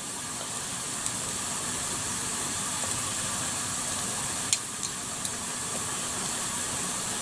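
Sliced mushrooms frying in a saucepan: a steady sizzling hiss, with a few sharp crackles about four and a half seconds in.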